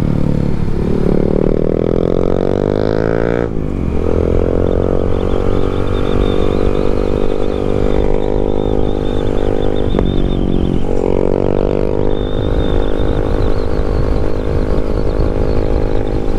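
Yamaha MT-07 parallel-twin engine on its stock exhaust, pulling under acceleration: the pitch climbs, dips sharply at an upshift about three and a half seconds in, climbs again, dips at a second shift about ten seconds in, then holds a steady cruise.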